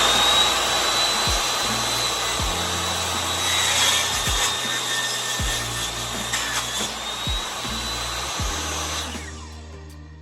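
Table saw running with a steady high blade whine as a wood board is trimmed flush against the blade. The saw is switched off about nine seconds in and winds down.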